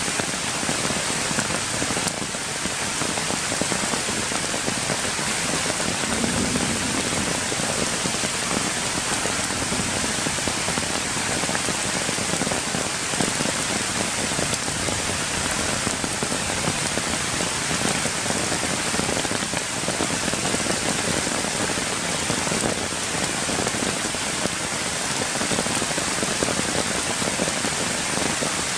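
Steady rain falling on wet ground, leaves and puddles.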